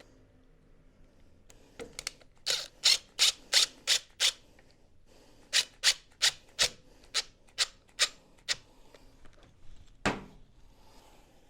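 Short scraping strokes by hand, about three a second, in two runs, with one more stroke near the end.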